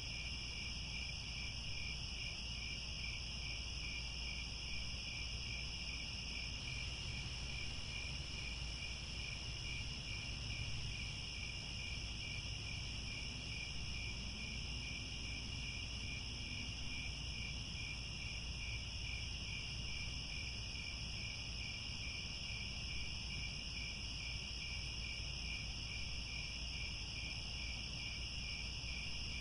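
Many crickets chirping in a dense, continuous chorus, with a fine, regular pulse, over a low steady rumble.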